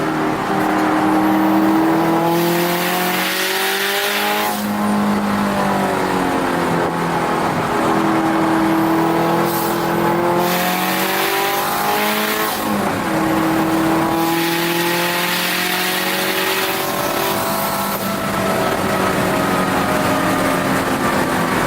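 Interior sound of a turbocharged Subaru WRX STI flat-four driven hard on a road course, its engine note climbing and falling several times as it accelerates, shifts and lifts for corners, over tyre and wind noise.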